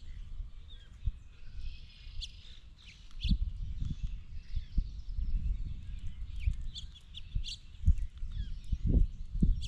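Many short bird chirps and call notes from several birds, mixed with irregular low thumps and rumbles close to the microphone that start about three seconds in and are the loudest sounds.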